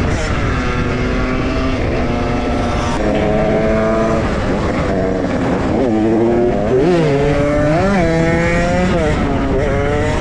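Dirt bike engine running under way at cruising revs, its pitch holding steady and then stepping. From about six seconds in, the revs dip and rise quickly several times as the throttle is rolled off and back on.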